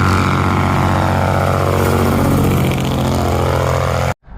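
Mack R-model truck's diesel engine running steadily and loud, cut off suddenly near the end.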